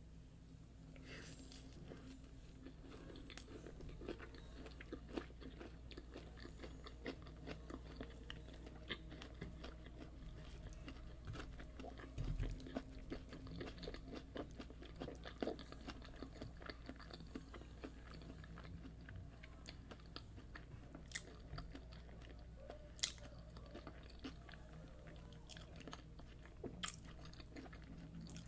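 Close-miked chewing and biting: a person eating fried yam with egg sauce, with soft crunches and many small wet mouth clicks, and a few sharper bites near the end.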